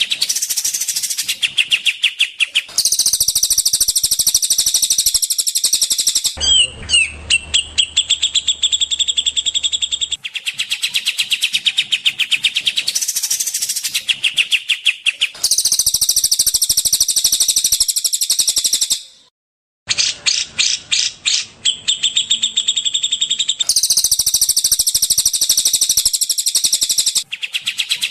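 Recorded songbird song for training caged birds: fast, dense, repeated chirping trills. The song comes in spliced segments that switch abruptly every few seconds, with one brief silent gap about two-thirds of the way through.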